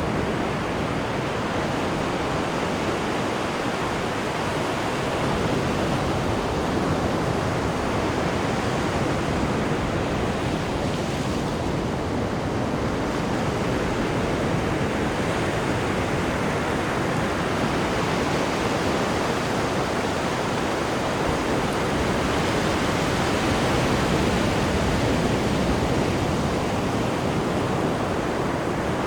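Steady rushing of sea water churned up behind the stern of a moving cruise ship, an even, unbroken wash of water noise with no lulls.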